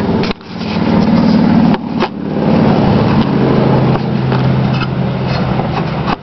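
A motor vehicle's engine running as it passes on the road, a steady low hum, broken by brief knocks or drop-outs near the start and about two seconds in.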